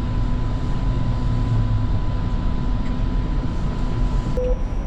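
Light rail vehicle standing at a station platform: a steady low rumble and hum from its onboard equipment, with a faint steady whine that stops shortly before a short beep near the end.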